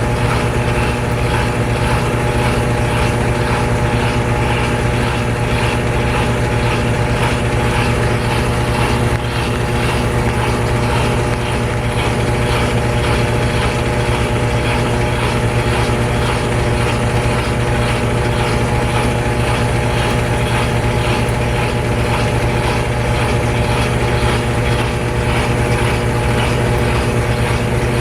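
GE Spacemaker laundry center's top-load washer in its final spin, the tub turning at a steady full speed with an even motor hum and several steady whining tones.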